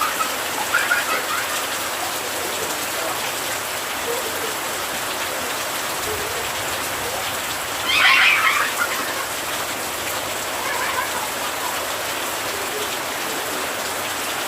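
Steady rain falling, an even hiss, with a brief louder sound about eight seconds in.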